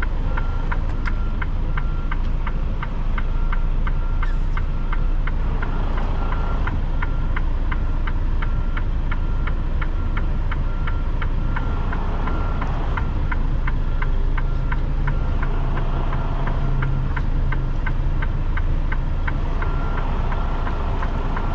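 Diesel engine of a 2021 Freightliner Cascadia semi-truck running at low speed while maneuvering a trailer, a steady low rumble. A regular ticking at about two per second runs over it.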